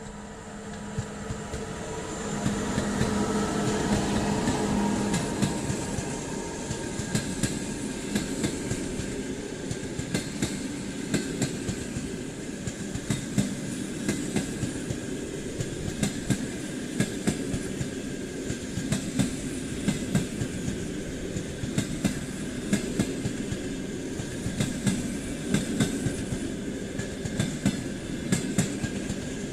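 EP2K electric locomotive passing at speed, its traction equipment humming loudest a few seconds in, followed by a mail and baggage train rolling by with wheels clacking steadily over the rail joints.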